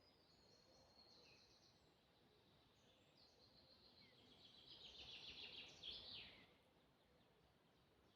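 Faint songbird song: a high trill of rapid repeated notes about a second in, then a longer trill that grows louder and ends about six seconds in with a quick falling flourish.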